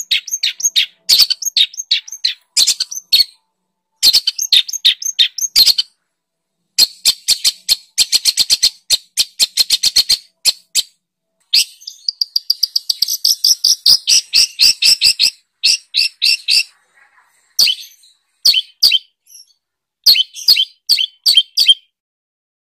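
Recorded songbird song used as masteran tutoring material for long-tailed shrikes: fast runs of sharp chirps and trills in bursts with short pauses, stopping shortly before the end.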